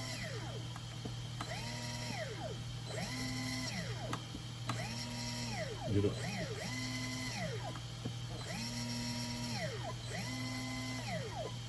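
Hobbywing brushless RC motor spinning unloaded on the bench, revved up and back down by throttle blips about every second and a half. Each blip is a whine that rises, holds and falls. The motor answers the throttle now that its ESC is plugged into the correct receiver port.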